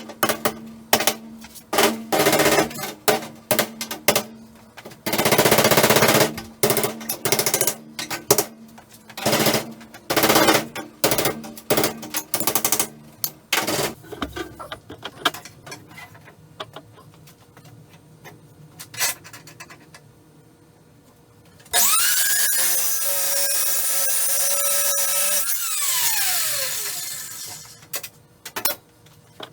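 A quick run of irregular bangs and bursts of noise, then an angle grinder spinning up with a rising whine. It runs steadily for about four seconds and winds down with a falling whine.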